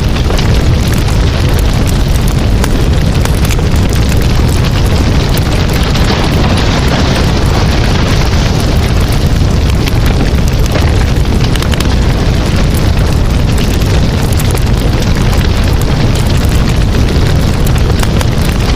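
Campfire burning, with a steady low rumble and constant fine crackling from the burning wood.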